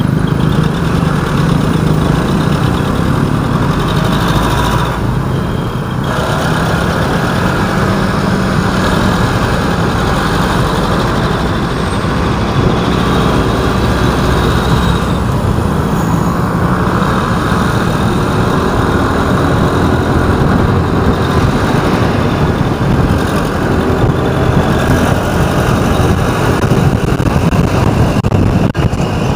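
Loud, steady road traffic noise: vehicle engines running and tyres on the road.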